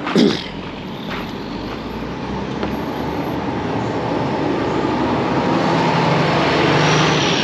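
Semi-truck's diesel engine and road noise building steadily louder as the loaded rig pulls away.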